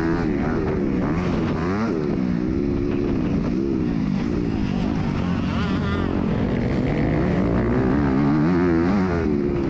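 MX2 motocross bike engine revving hard under racing, its pitch climbing and dropping every second or two as the throttle is opened and shut, heard close up from the bike's onboard camera.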